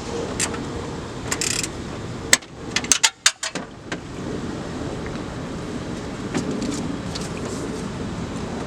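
A few sharp metal clicks and clinks from hand tools, bunched between about one and three and a half seconds in, over steady outdoor background noise.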